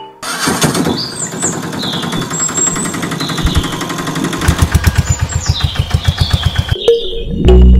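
An engine running with a fast chugging beat that turns into a stronger, more distinct pulsing in the second half, then stops shortly before the end.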